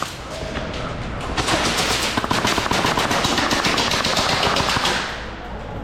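Airsoft guns firing in rapid full-auto, a dense rattle of shots that is loudest from about a second and a half in until about five seconds in.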